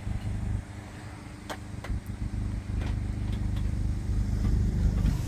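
Steady low rumble with a hum, heard inside a heritage railway carriage, with a few sharp clicks and knocks. It grows louder toward the end.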